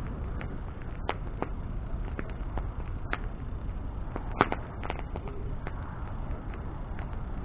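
Wood bonfire burning: irregular sharp crackles and pops, one louder pop about four and a half seconds in, over a steady low rush.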